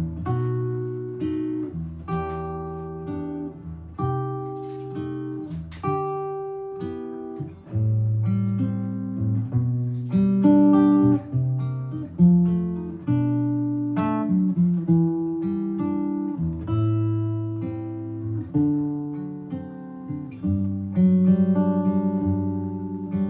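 Solo guitar playing an instrumental chorus of a jazz ballad, picking chords and melody lines with each note struck and left to ring and fade.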